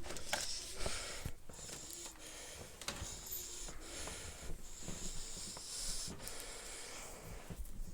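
Faint, scattered knocks and bumps of a switched-off Dyson DC07 upright vacuum being carried up the stairs.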